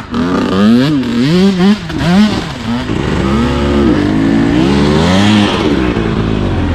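Two-stroke dirt bike engine revving up and down in short throttle blips, its pitch rising and falling over and over.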